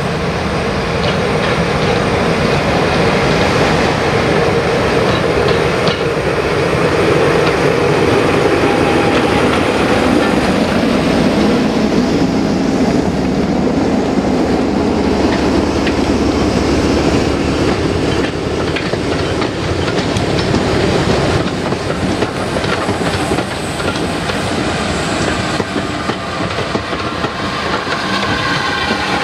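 A passenger train running past at close range, led by an English Electric Class 11 diesel shunter, with its engine note at the start. The coach wheels then keep up a steady clickety-clack over the rail joints, and the Hunslet Austerity steam locomotive at the rear comes by near the end.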